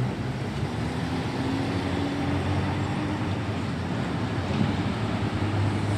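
A steady low motor rumble with hiss, holding an even level.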